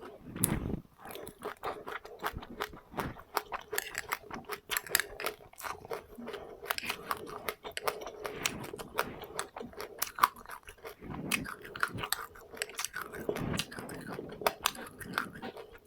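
Close-up chewing of passionfruit pulp and seeds, a rapid run of crisp crunches and clicks as the seeds break between the teeth, with a few softer, deeper mouth sounds in between.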